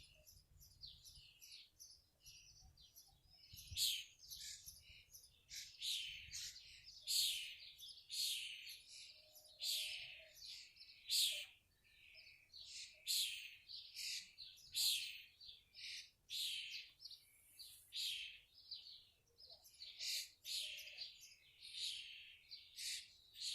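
Garden birdsong: short, high chirps and phrases repeating over and over, with barely a pause between them.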